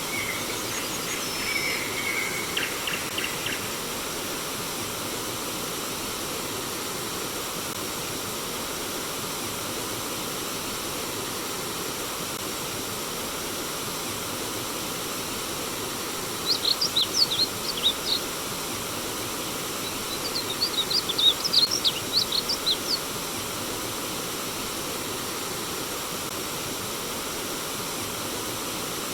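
Steady rush of flowing stream water, with a songbird calling in the first few seconds and two bursts of rapid high chirps, one about 16 seconds in and another about 20 seconds in.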